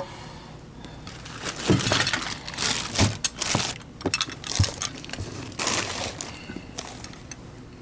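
Irregular clinks, rattles and knocks of hard metal and plastic objects being handled and set down on a workbench, a dozen or so short sharp sounds spread across several seconds.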